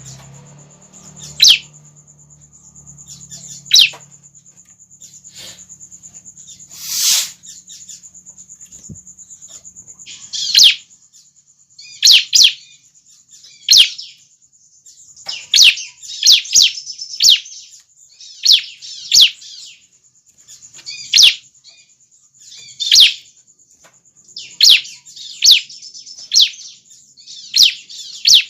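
Young bar-winged prinia (ciblek) calling: sharp, high chirps that sweep downward. They are scattered at first and come in quick clusters from about halfway on, over a steady high thin tone.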